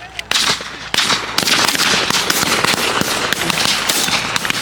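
Heavy rain pelting down: a loud, dense crackle of drops that sets in hard about a second in and keeps up without a break.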